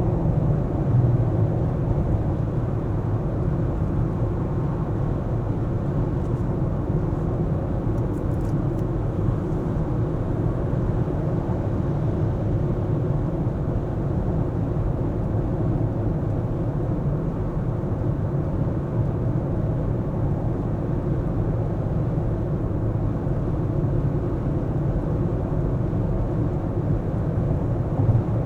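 A car being driven: a steady low rumble of engine and road noise, with a few faint ticks about eight seconds in.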